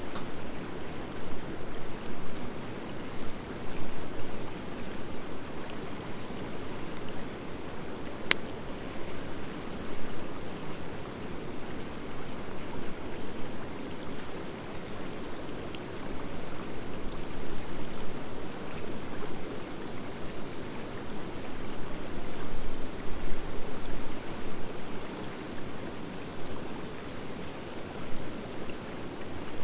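Driftwood campfire burning: a steady, uneven rush of flames with light crackling, and one sharp pop about eight seconds in.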